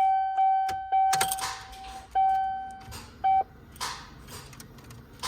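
Car's electronic warning tone sounding in two long steady beeps and one short one, broken by sharp clicks, from a car whose battery is dead; the owner can't tell whether the battery or the alternator is at fault.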